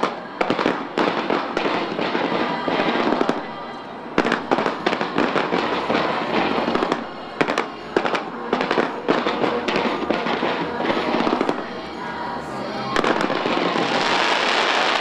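Fireworks display: a dense run of sharp bangs and crackling bursts in volleys, with short lulls between them. Near the end the bangs give way to a steadier crackling hiss.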